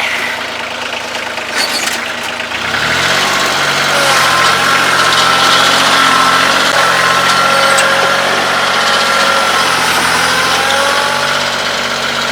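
Kioti CK2610 compact tractor's three-cylinder diesel engine revving up about three seconds in, then running steadily at the higher speed with a high whine over it.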